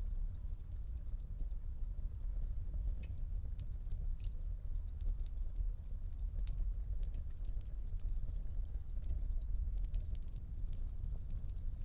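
Wood fire burning in a fireplace, with a steady low rumble of flames and quick, irregular crackles and pops throughout.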